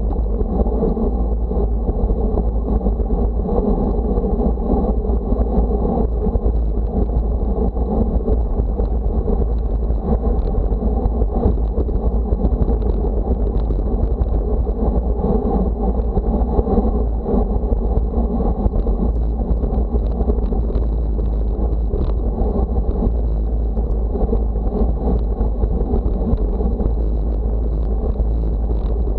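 Steady wind rush buffeting the microphone of a moving camera, heaviest in the low end, with road noise underneath and no let-up.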